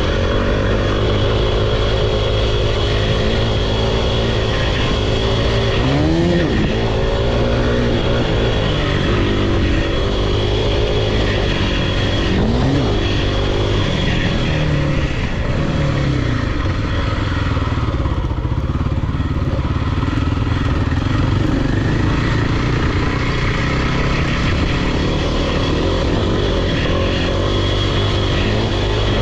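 Off-road vehicle engine running steadily and loud, with brief rises in revs about six, twelve and fifteen seconds in.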